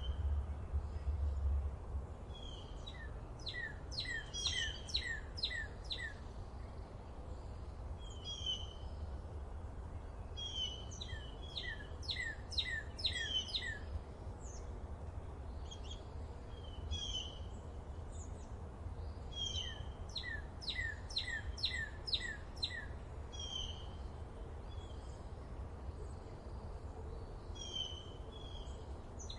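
Forest birdsong: several birds calling, one repeating a quick run of about six falling notes every few seconds, with shorter chirps between. Underneath, a steady low rumble, heaviest in the first couple of seconds.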